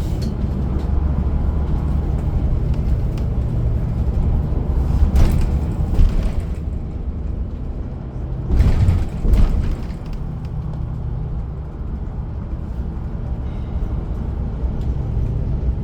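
Transit bus driving along the road, heard from inside the cabin: a steady low engine and road rumble, with two short, louder rushes of noise about five and nine seconds in.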